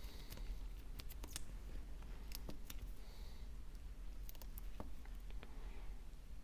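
Scattered light clicks and ticks of small repair tools handling an opened iPhone while its battery adhesive strips are worked loose, over a low steady hum.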